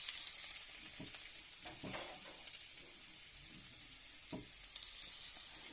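Chopped garlic and chillies sizzling and crackling in hot oil for a dal tadka, louder at the start and again near the end, with a few light knocks from stirring in the pan.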